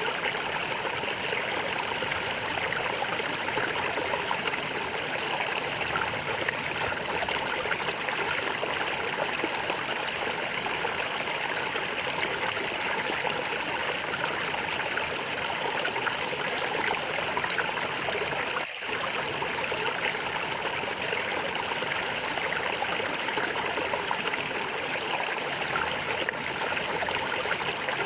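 Water in a small stream gurgling and trickling steadily, with one momentary dip about two-thirds of the way through.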